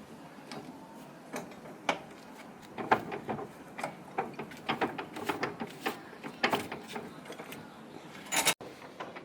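Irregular sharp clicks and knocks of hand tools on metal during tractor clutch repair work, busiest in the middle and ending in a louder burst near the end.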